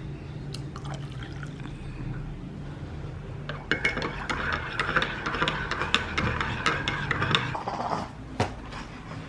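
Water running, with small clicks and clinks, starting about three and a half seconds in and stopping around eight seconds in.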